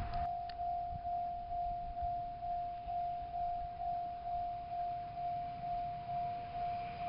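Railway level-crossing warning bell ringing, one repeated electronic ding about twice a second: the crossing is closed for an approaching train.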